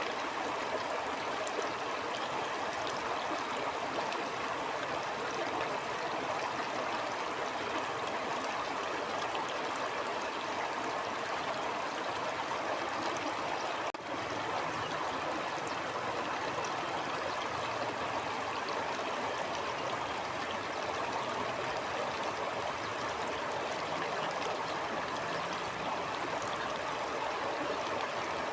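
A stream flowing steadily, a continuous rush and babble of water, with one brief dip in level about halfway through.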